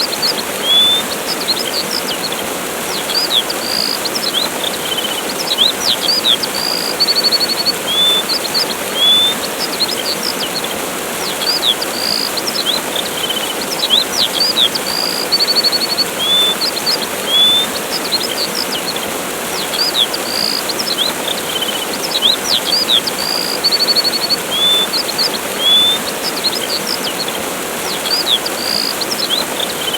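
Steady rushing of a waterfall under small birds chirping: short high chirps, quick trills and rising and falling whistles that come again and again in the same few phrases.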